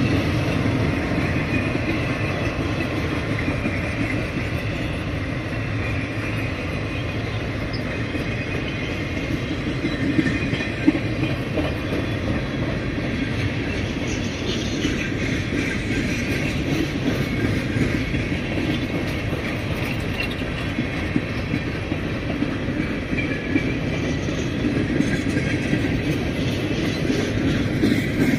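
Freight cars of a passing train rolling by close to the track: a steady rumble of steel wheels on the rails, with clicking as the wheels cross rail joints and a faint high-pitched squeal at times.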